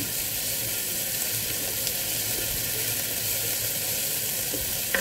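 Chopped onion and carrot sizzling in melted margarine in an electric multi-cooker's nonstick pot, stirred with a spatula: a steady frying hiss. A light knock near the end.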